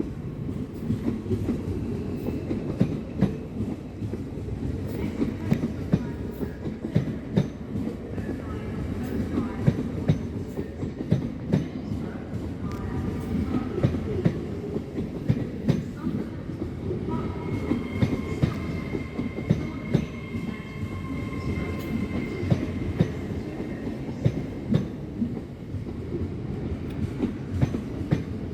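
Train running slowly through a station, a steady rumble with wheels clicking over rail joints and faint thin squealing tones from the wheels partway through.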